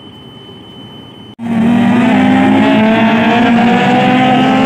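Faint hiss with a thin high tone, cut off about a second and a half in by a loud racing car engine at high revs, its pitch climbing slowly as it accelerates.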